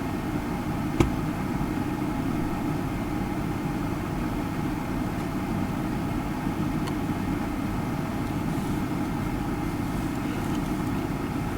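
Steady low background rumble with one sharp click about a second in.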